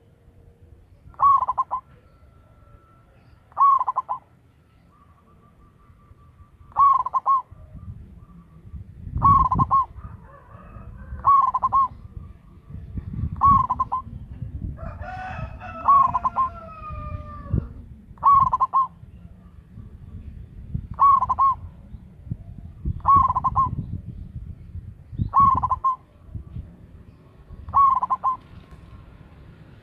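Zebra dove (perkutut) cooing, short calls repeated about every two seconds. A rooster crows once in the middle, and there is a low background rumble.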